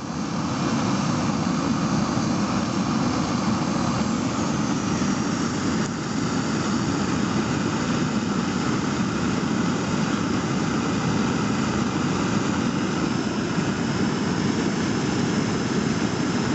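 Portable gas camping stove burner turned up to full heat, its flame running with a steady, even rush.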